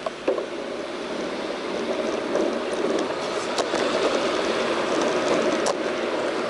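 A bicycle riding along a road: a steady rush of wind and tyre noise that builds over the first few seconds, with a few faint clicks and rattles.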